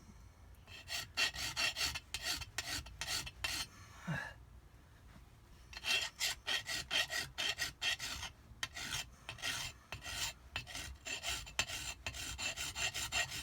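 Hand bastard file rasping in quick back-and-forth strokes along the edge of a Kawasaki SX-R 800 jet-pump impeller vane, knocking off the burrs ("hangnails") that debris raised on it. There are two runs of strokes, with a short pause just after a third of the way in.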